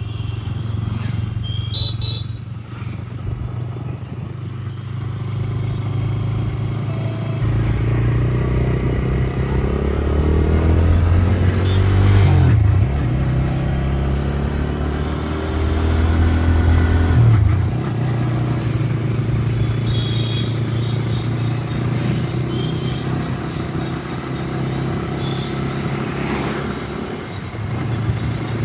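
Motor vehicle engine running with road noise. Its pitch rises twice, ending about twelve seconds in and again around seventeen seconds, and each time it drops off sharply, as with accelerating and then shifting gear.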